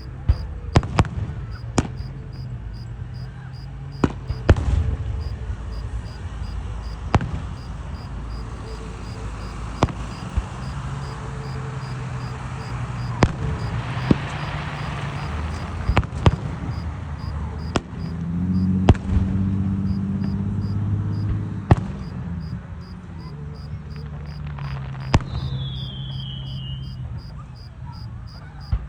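Fireworks going off: about a dozen sharp bangs every couple of seconds, a crackling burst about halfway through, and a short falling whistle near the end. A cricket chirps steadily throughout.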